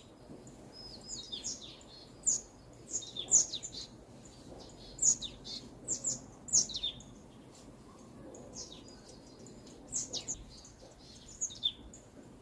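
Small birds chirping in a forest: scattered short, high, falling chirps, some in quick clusters, over faint background ambience.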